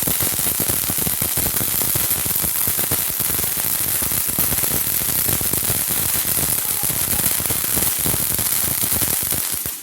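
A ground fountain firework spraying sparks: a loud, steady hiss thick with dense crackling, cutting off abruptly near the end.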